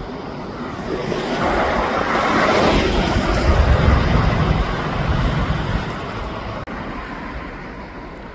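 A passing car: road and tyre noise with a low rumble swelling to a peak about three to four seconds in, then fading away.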